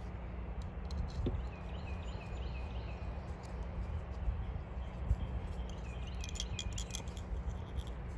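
A songbird calling in runs of short, quickly repeated chirps, once about a second and a half in and again near six seconds, over a steady low rumble.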